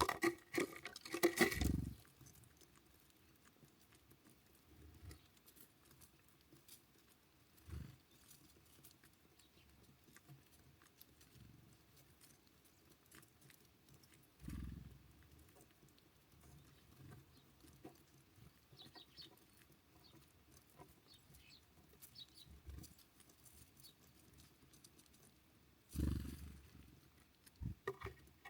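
Birds at a feeder: short knocks and rustles as they land, hop and peck, with a louder flurry in the first two seconds and another near the end. Faint, short high chirps come in between.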